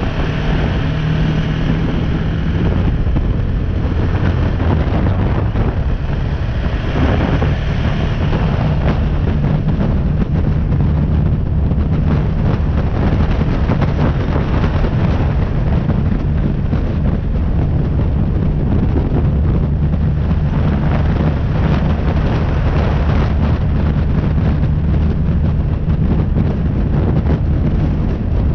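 BMW G310R's single-cylinder engine running steadily under way, with heavy wind noise on the action camera's microphone.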